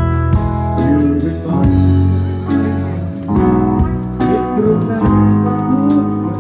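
Band playing live at a sound check: guitar over held bass notes, with sharp hits repeating through the passage and no singing.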